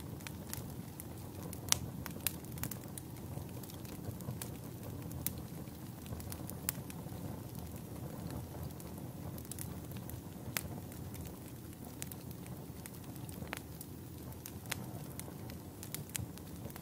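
Campfire burning: a steady low roar of flames with irregular sharp crackles and pops from the burning wood.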